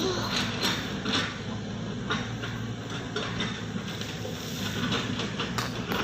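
A machine's engine running steadily, with irregular knocks and clatter over it, typical of road-repair equipment at work on stone.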